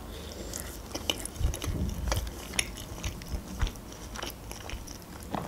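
Close-miked chewing of a mouthful of soft lavash casserole with cheese and sausage: many small irregular mouth clicks and smacks, with a few soft low thumps about a couple of seconds in.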